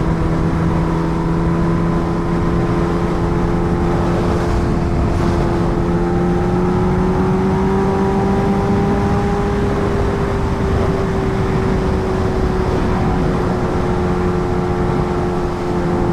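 Kawasaki Ninja H2R's supercharged inline-four running at a steady cruise, its pitch rising slightly around the middle and easing back. Under it is a constant rush of wind and road noise.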